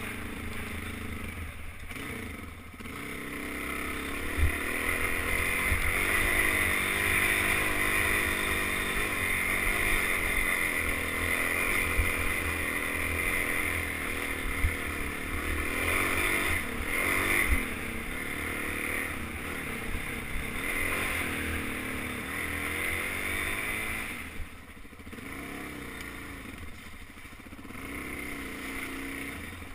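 Suzuki DR-Z400 dirt bike's single-cylinder four-stroke engine running on a trail ride, its pitch rising and falling as the throttle opens and closes, easing off briefly near the start and again about 25 seconds in. Scattered low knocks come through under the engine.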